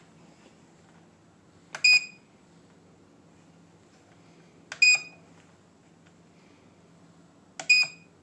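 Three short electronic beeps, evenly spaced about three seconds apart, each a single high tone with a click just before it.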